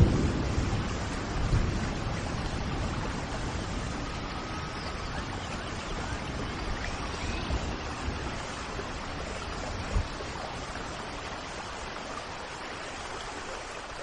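Steady rain, with a low rumble of thunder at the start that dies away over the first couple of seconds and faint bird chirps over it. A short low thump comes about ten seconds in.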